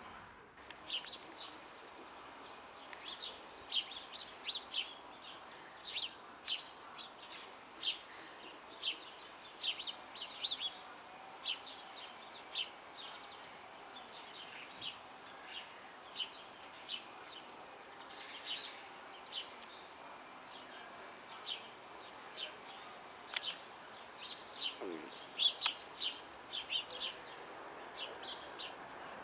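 Small birds chirping, many short high chirps at an irregular pace throughout, over a faint outdoor hiss.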